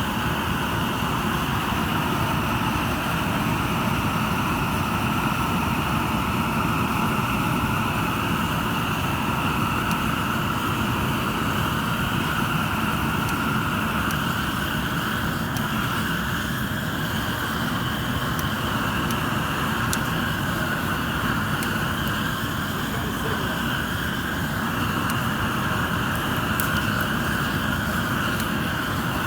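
Propane burners on a tractor attachment firing with a steady rushing roar, with a few faint ticks near the end.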